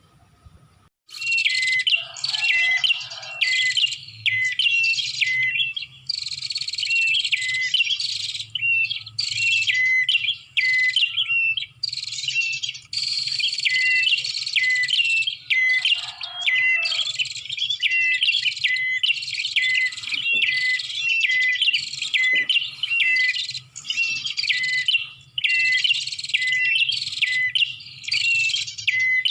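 Prinia (prenjak) song played as a lure call: loud, fast chattering phrases of high chirps repeated almost without pause, starting about a second in.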